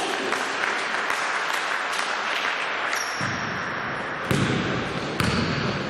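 Basketball game in a sports hall: the ball bouncing on the hardwood court a few times in the second half, over the steady hum of the hall.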